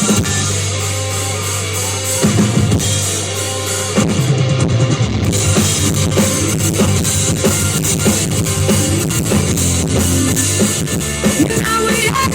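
Live rock band playing an instrumental passage: drum kit, bass and guitar. A singing voice comes in near the end.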